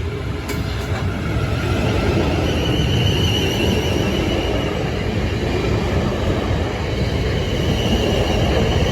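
South Western Railway Class 450 electric multiple unit running past, getting louder over the first couple of seconds. A dense rumble of wheels on rail carries a steady high whine.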